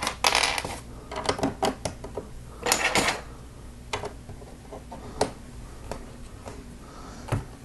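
Plastic LEGO bricks being handled and stacked: scattered sharp clicks and clacks, with a short rattle just after the start and another about three seconds in.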